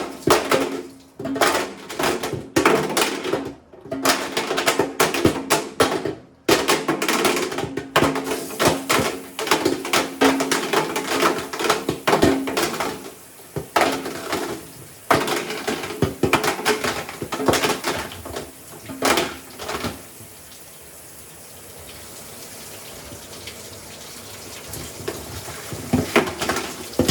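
A calculator clattering and knocking against the drum of an LG WM6700HBA front-load washer as it tumbles through the wash, with water sloshing. The clatter stops for several seconds about two-thirds of the way in, leaving a quieter steady sound, and starts again near the end.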